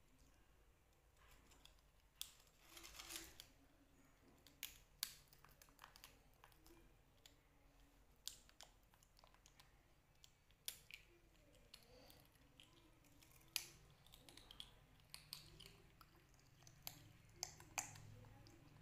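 Faint, irregular crisp crunches and clicks of dried banana chips being bitten and handled, with a short cluster of them near the start and single sharp clicks every second or few after that, against near silence.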